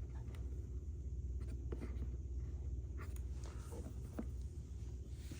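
Faint clicks and light scraping of hands handling the generator's air filter cover, over a steady low hum.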